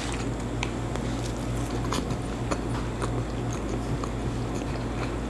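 Close-miked chewing of food, with scattered short wet mouth clicks and smacks, over a steady low hum.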